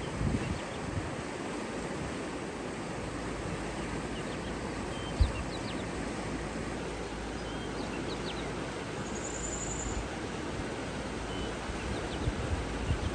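Steady rush of water with scattered short, high bird chirps over it, a brief high trill about nine seconds in, and a single low thump about five seconds in.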